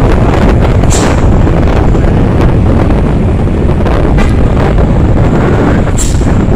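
Loud, steady rumble of wind buffeting the microphone, mixed with the noise of a road vehicle. Two short sharp clicks come about a second in and again near the end.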